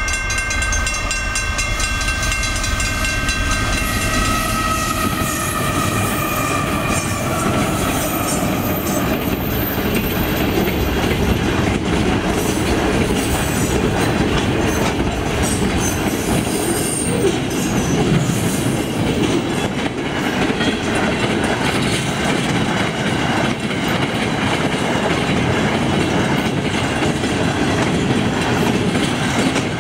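Freight train passing close by: its diesel locomotives run past in the first several seconds with a drone that slides down in pitch as they go by, then a long string of intermodal wagons rumbles and clatters steadily over the rail joints.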